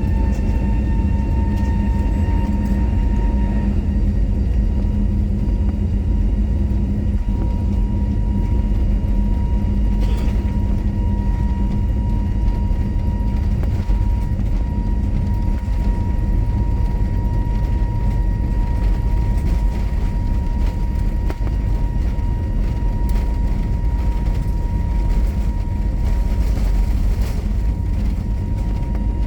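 Airbus A320neo's CFM LEAP-1A turbofan engines at high thrust during takeoff, heard inside the cabin: a steady deep rumble with an engine whine that rises and levels off in the first couple of seconds, then holds.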